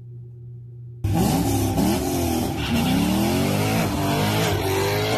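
Car engine accelerating hard through the gears: its pitch climbs, drops back at each shift and climbs again. It starts abruptly about a second in, after a low steady hum.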